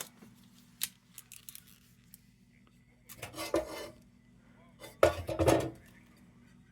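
Sheet-metal lantern parts being handled, clinking and scraping: a sharp click about a second in, then two short bursts of metal rattling and rubbing about three and five seconds in.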